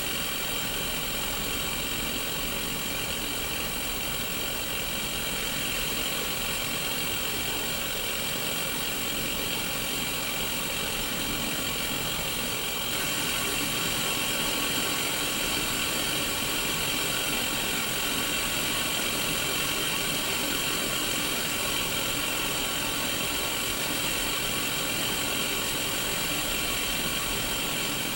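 Static hiss from a Sony Mega Watchman mini black-and-white CRT TV tuned to no station: steady white noise, stepping up slightly in level about halfway through.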